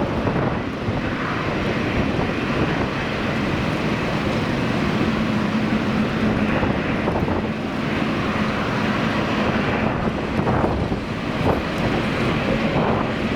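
Airliner engine noise, with wind buffeting the microphone. A faint steady hum is strongest in the middle.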